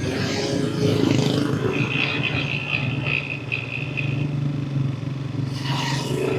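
Yamaha NMAX V3 scooter engine running under way, its pitch rising about a second in and then holding steady, with road and wind noise. A thin high whine sounds through the middle, and a short rush of noise comes near the end.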